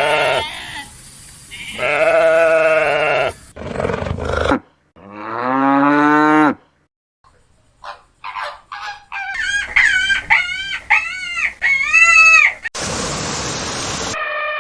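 Farm animals calling in turn: several long bleats and moo-like calls, one rising then falling in pitch, then a quick run of about five short arched calls, and a harsh, noisy burst of a second or so near the end.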